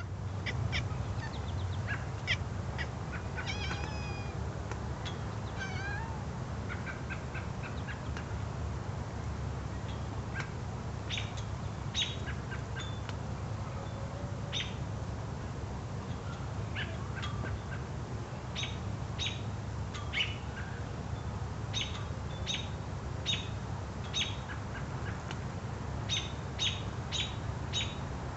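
Birds chirping and calling in many short, high notes, some gliding in pitch early on and coming thick and fast near the end, over a steady low hum.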